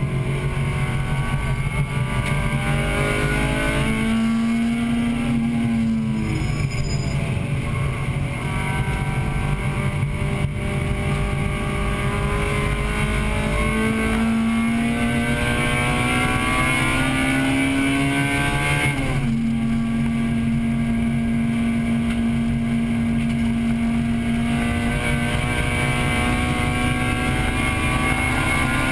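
1998 Acura Integra Type-R's four-cylinder engine heard from inside the car under racing load, its pitch climbing and falling as it is driven through the gears, with a sharp drop in pitch about nineteen seconds in at a gear change.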